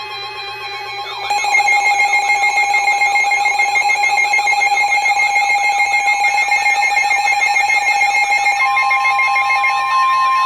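Electronic weather-alert alarm that marks a new warning: a loud, rapidly warbling tone starts about a second in, and a steady single high tone joins it near the end.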